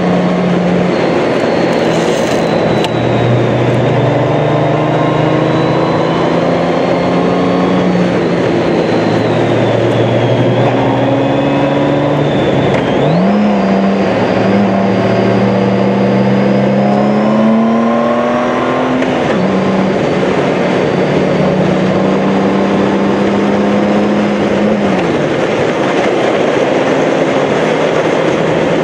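Honda Gold Wing GL1800 motorcycle's flat-six engine running at road speed under a steady rush of wind. The engine note shifts up and down several times, with a sharp rise in pitch about halfway through.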